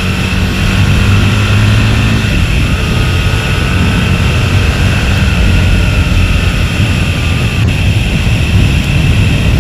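Aprilia RSV's V-twin engine running under way, with heavy wind rush over the microphone. The engine note changes about two seconds in.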